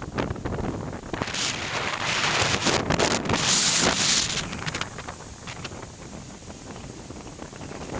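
Strong wind, 35 mph or more, gusting along the beach and buffeting the microphone with a crackling rumble. A louder gust swells about a second and a half in and eases off after about four seconds.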